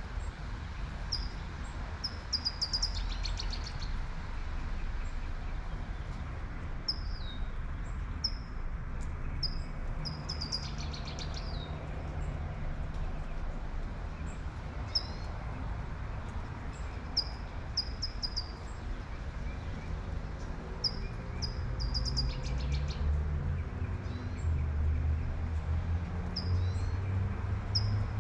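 Light rain falling with a steady hiss while small birds chirp over and over in short high calls. A low rumble of a passing car swells in the last few seconds.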